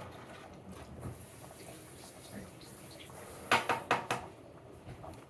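A spatula clinking against a pan, three or four sharp clinks in quick succession a little past the middle.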